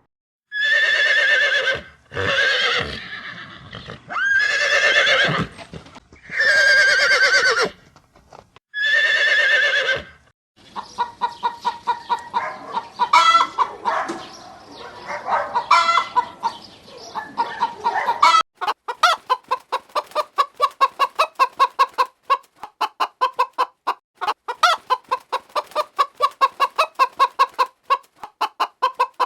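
Chickens: four loud, drawn-out calls in the first ten seconds, then a long run of rapid clucking that settles into a fast, even string of clucks for the last ten seconds.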